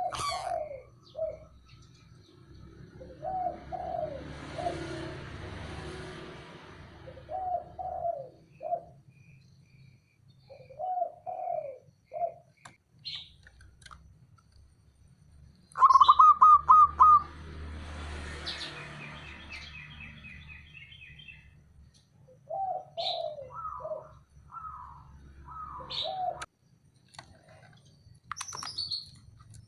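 Zebra doves cooing: short clusters of quick, rolling coo notes repeated with pauses, the loudest cluster about sixteen seconds in. Thinner, higher bird chirps come and go alongside.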